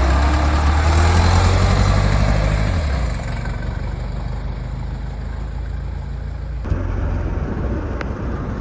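A motor vehicle's engine running close by with a deep hum that fades away after about three seconds, followed by outdoor background noise that changes abruptly near the end.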